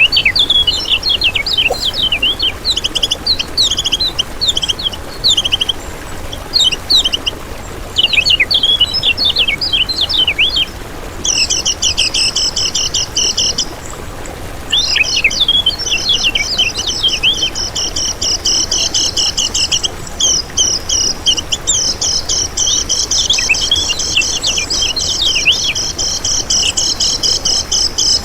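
Kecial kuning songbird singing a fast, chattering song of high chirps and twitters. It breaks off briefly about halfway, then runs into an almost continuous trilling stream.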